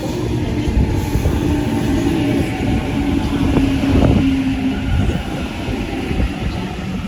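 A passenger train moving through the station: a steady rumble of wheels on rails with a sustained hum that fades about five seconds in.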